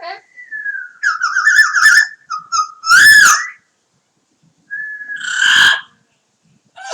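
Double yellow-headed Amazon parrot whistling and calling: a warbling whistle that dips slightly in pitch, a loud rising-and-falling call about three seconds in, then a held whistle that breaks into a harsh screech near the end.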